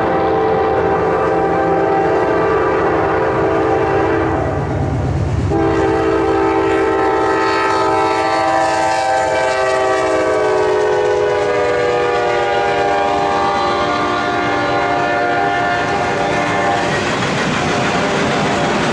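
Horn of a CSX GE C40-8W diesel locomotive blowing two long blasts with a short break between them, the pitch of the second sliding down partway through. Near the end the horn stops and the train's wheels rumble and clatter over the rails.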